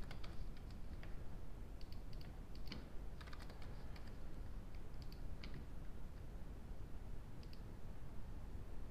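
Faint, scattered clicks of computer keys and mouse buttons, coming in small groups every second or two over low room hiss.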